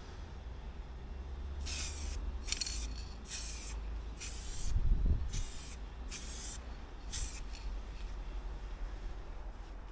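Aerosol spray paint can hissing in about eight short bursts, each under half a second, as the fairing is sprayed in light passes. A low thump near the middle, over a steady low rumble.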